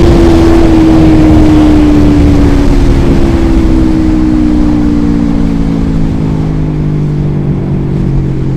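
Motorcycle fitted with a DX Generation Sphere Oval aftermarket exhaust running on the move, its engine note slowly falling in pitch and easing off as the bike decelerates, over road and wind rumble.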